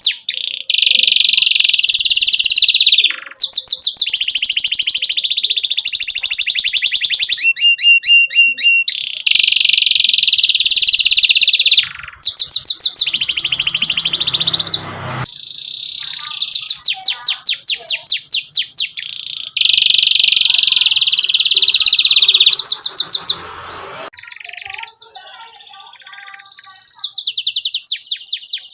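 Domestic canary in full song, singing loud, rapid trills and long rolling phrases of fast repeated notes, with a few short breaks and a quieter stretch near the end before the trills start again.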